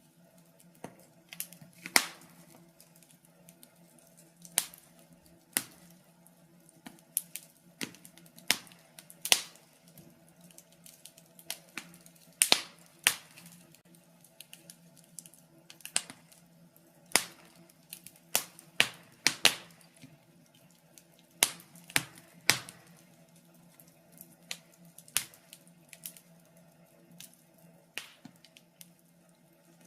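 Wood fire crackling: irregular sharp pops and snaps of burning logs, some much louder than others, over a faint steady low hum.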